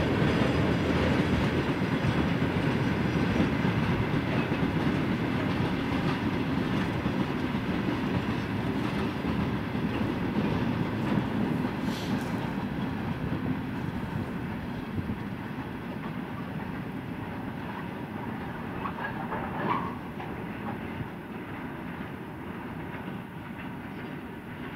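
Freight train of open wagons rolling along the rails: a steady rolling rumble of wheels and cars that slowly fades as the train moves away, with one brief sharp click about halfway through.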